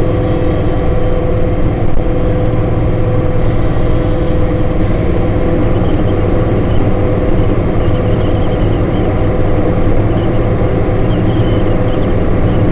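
HMMWV's diesel V8 running while the vehicle is driven: a loud, steady low drone with a steady whine riding over it.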